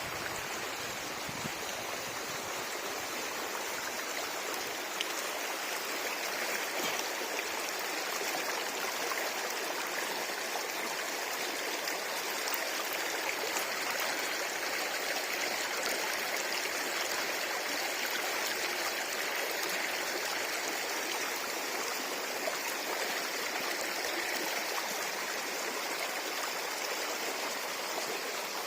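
River water flowing, a steady rushing that holds at the same level throughout.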